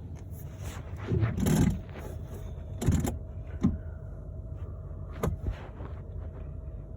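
Ford F-150 pickup's engine idling steadily. Over it come handling noises inside the cab: a rustling, scraping sound just after a second in, a sharp knock about three seconds in, and a couple of lighter clicks later.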